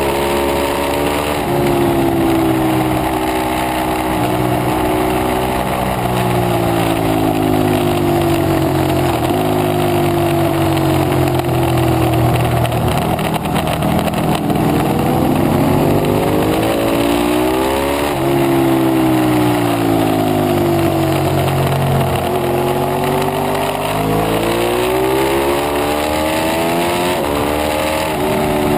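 Ducati 848 Evo's L-twin engine heard onboard at racing speed. The engine note drops steadily as the bike slows for a tight corner, then climbs again as it accelerates out, with sudden drops in pitch at the gear changes. Wind rushes over the microphone throughout.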